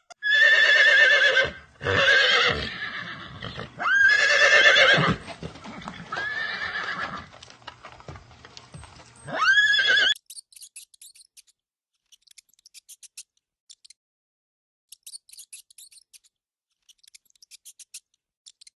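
Horse neighing, about five loud whinnies in the first ten seconds. After that only faint sparse clicking is heard.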